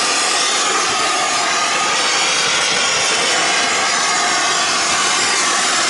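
Air-acetylene torch burning with a steady hiss, melting ice off a compressor's suction accumulator.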